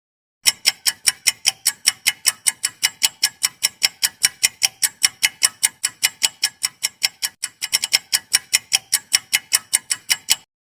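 Clock ticking sound effect running as a quiz countdown timer: sharp, even ticks about four to five a second, with a brief flurry of quicker ticks about eight seconds in. It starts and stops abruptly.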